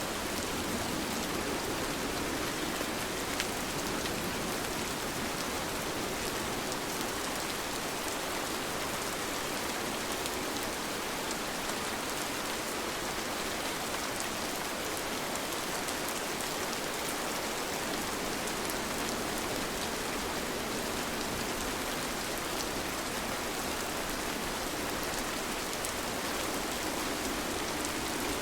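Steady rain falling: an even hiss with scattered small drop ticks, no thunder.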